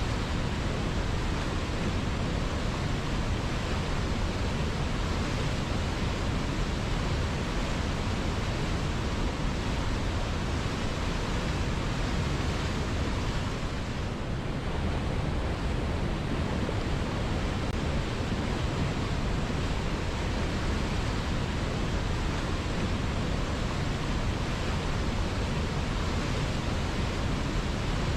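River water flowing steadily, a continuous rushing noise with a brief slight dip about halfway through.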